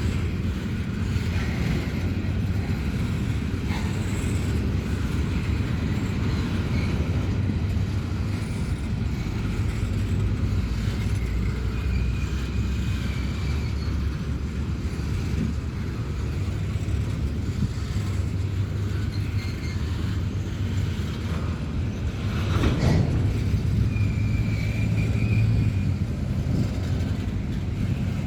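Empty coal train rolling by with a steady low rumble, brief high-pitched squeals near the middle and again near the end, and a single sharp knock about three quarters of the way through.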